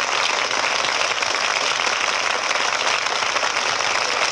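Audience applauding on an old, hissy broadcast recording, at a steady level after the band is introduced.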